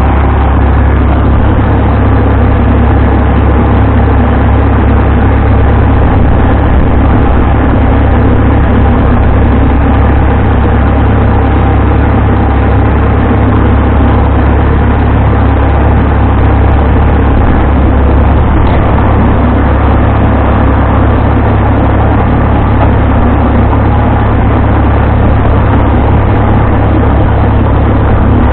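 Vintage tractor engine running loud and steady at constant speed, with a heavy low rumble and no change in pace.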